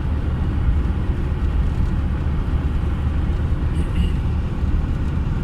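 Steady low rumble of a moving motor vehicle, heard without a break or change.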